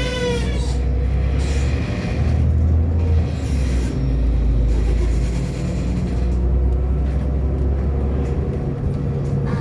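Inside an Irisbus Agora L articulated city bus under way: a steady low engine drone and road rumble. A high whine fades out in the first half-second.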